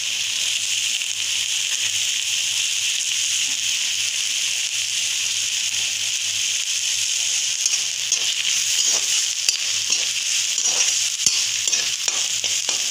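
Chopped onion, ginger and garlic sizzling in hot oil in a metal kadai, a steady high hiss. From about eight seconds in, a slotted steel spoon scrapes and taps against the pan as the mixture is stirred.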